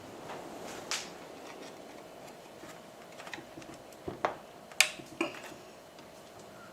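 Scattered light clicks and knocks of small hard parts being handled, irregular, with a sharper knock about five seconds in, over a faint steady hum.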